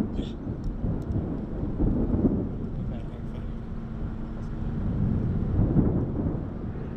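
Thunderstorm noise: a steady low rumble of wind and thunder, with a few sharp knocks in the first second from big hail falling.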